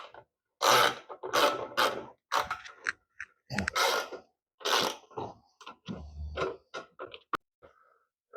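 A run of short mechanical rattling, ratchet-like strokes, about ten in an irregular rhythm, with a low thud about six seconds in.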